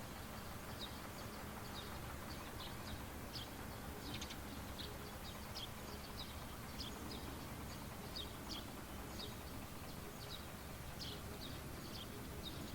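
Small birds chirping: short, high notes repeated irregularly, several a second at times, over a low, steady background noise.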